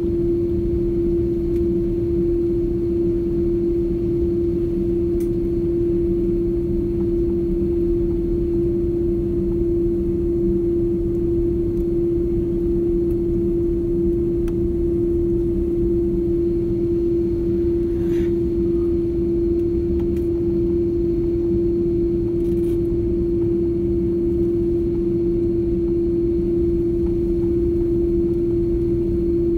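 Steady airliner cabin noise: a continuous engine and air-system drone with a strong steady hum tone over low rumble. A couple of faint clicks come about two-thirds of the way through.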